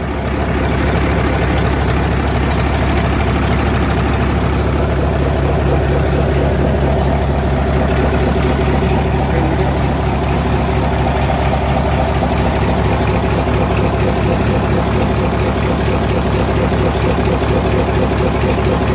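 Overhauled Daewoo diesel engine idling steadily.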